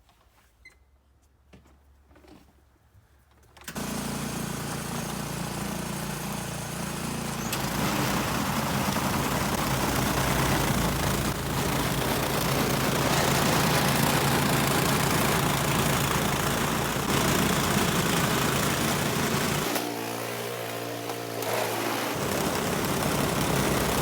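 Snowblower's small petrol engine comes on suddenly about four seconds in after a few faint clicks, then runs steadily, its sound thinning briefly for a couple of seconds near the end.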